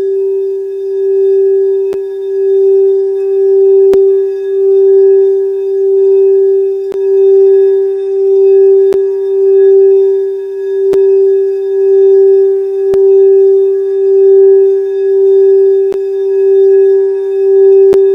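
Singing bowl held sounding on one steady low tone with fainter higher overtones, its loudness swelling and fading about every second and a half, with faint light ticks every couple of seconds.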